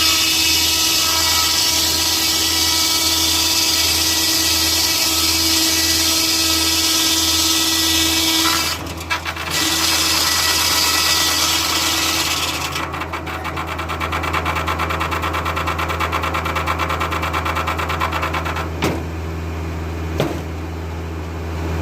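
Foley-Belsaw circular sawmill blade cutting through an oak log: a loud, steady hiss of the cut over the low drone of the tractor engine driving it. About thirteen seconds in, the cut ends and the blade spins free with a fast ticking while the engine keeps running. Two sharp knocks come near the end.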